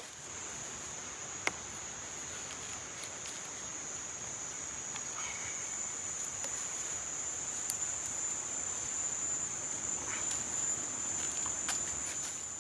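Insects trilling: a continuous high-pitched drone on one steady pitch, with a few faint ticks and clicks over a soft background hiss.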